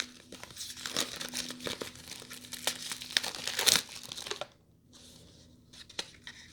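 Packaging crinkling and tearing as an eyeshadow palette is unwrapped by hand, a dense run of crackles that is loudest just before four seconds in. After that it drops to a few small handling clicks.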